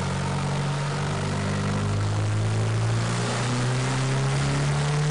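Turbocharged truck engine pulling under load on a chassis dyno, its pitch climbing slowly and steadily as it builds boost.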